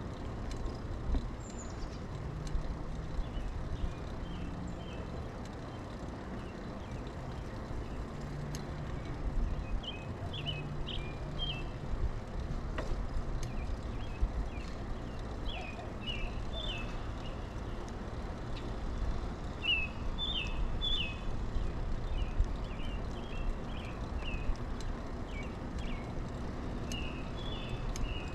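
Riding noise of a Kona Blast mountain bike: a steady low rumble of tyres and wind on a chest-mounted camera's microphone. Birds chirp repeatedly in short calls through most of it, most often in the second half.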